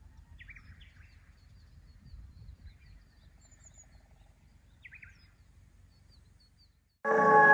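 Faint outdoor ambience with a low rumble and small birds chirping a few times, in short quick notes. Music starts suddenly near the end.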